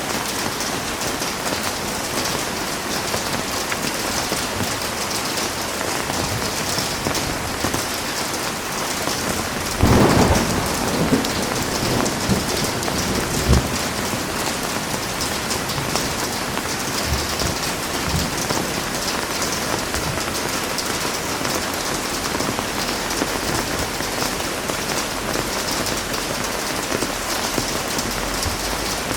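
Heavy rain falling steadily, with a clap of thunder about a third of the way in and a few shorter rumbles in the seconds after it.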